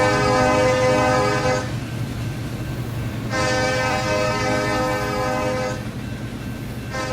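Diesel locomotive's multi-chime air horn sounding long blasts, the first ending about a second and a half in, a second long blast after a short gap, and a short blast beginning near the end, in the long-long-short rhythm of a grade-crossing signal. A steady low rumble of the train runs underneath.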